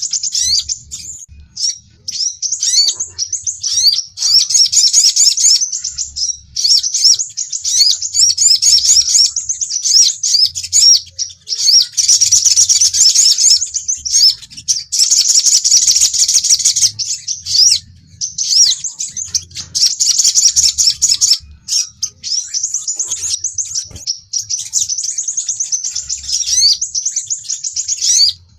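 Sunbirds calling: rapid, high-pitched chirps and twittering trills in dense, loud bouts broken by short pauses. These are lure and challenge calls of sunbirds in fighting mood.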